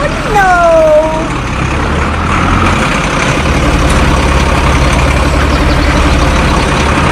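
A truck engine rumbling steadily at a low pitch, settling into an even pulsing beat about three and a half seconds in, with a short falling pitched tone in the first second.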